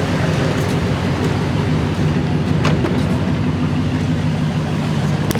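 Dodge Charger Scat Pack's 392 Hemi V8, its mufflers removed, running as a steady low drone.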